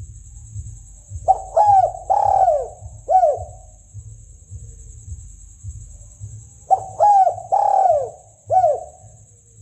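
Spotted dove cooing, a recorded lure call for hunting: two phrases of about four falling coos each, the first about a second in and the second about seven seconds in, over a steady high-pitched hiss.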